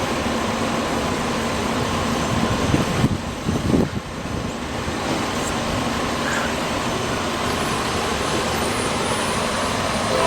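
Freight train running past on the rails: a steady roar of wheel and rail noise, swelling briefly a few seconds in.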